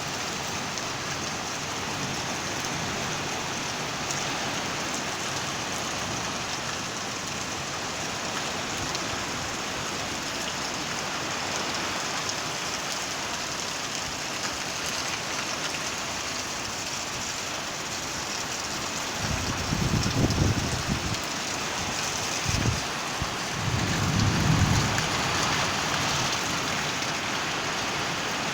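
Heavy rain falling steadily in a storm. About two-thirds of the way in there are two spells of louder low rumbling, with a short one between them.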